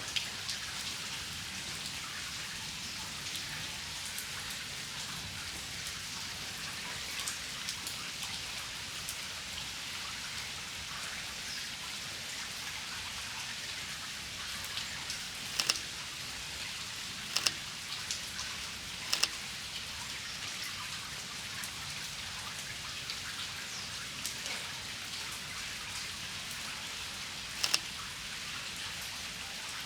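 Steady rain falling, with a handful of short sharp clicks standing out above it, some in quick pairs, in the second half.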